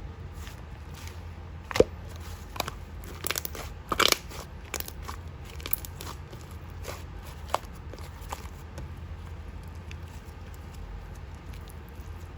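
Pink slime being pressed and squeezed by hand, giving scattered crackles and sharp pops, loudest about 2 and 4 seconds in and growing sparse in the second half, over a low steady hum.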